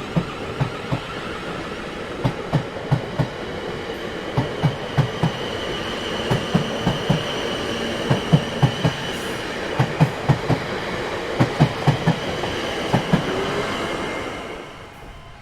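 Train rolling over rail joints: a steady rumble with rhythmic clickety-clack wheel knocks in groups of two to four, fading away near the end.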